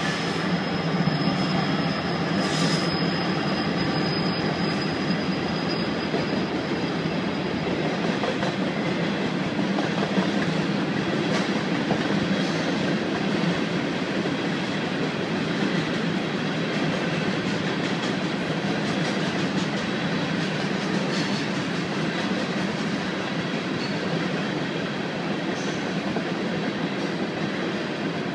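Herzog ballast train rolling past: a steady rumble and rattle of wheels and cars on the rail, with scattered clicks and a thin high squeal that fades out about six seconds in.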